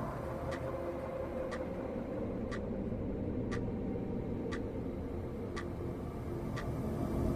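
Wall clock ticking steadily, one sharp tick a second, over a steady low hum.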